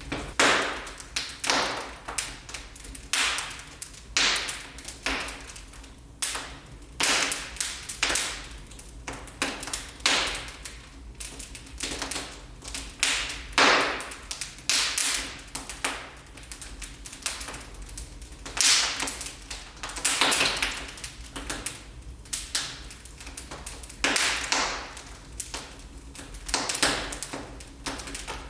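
Wood fire in a fireplace crackling, with irregular sharp pops and snaps several times a second over a faint low hum.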